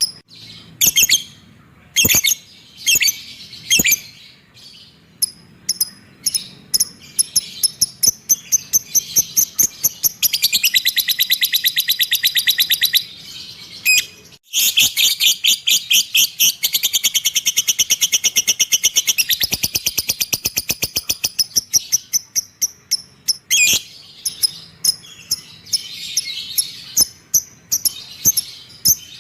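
A small cage bird calls in quick, sharp, high chirps. Twice it runs them into long rapid trills lasting a few seconds.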